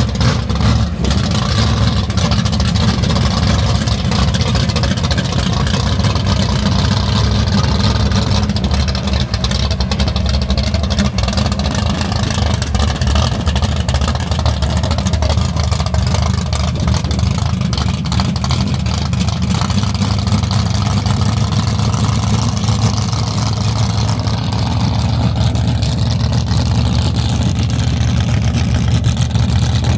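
A car engine running steadily, loud and low, with little change in pitch.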